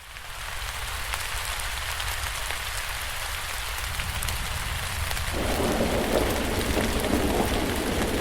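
Steady rain with the patter of many small drops over a low rumble. About five seconds in a louder, deeper rumble joins and holds.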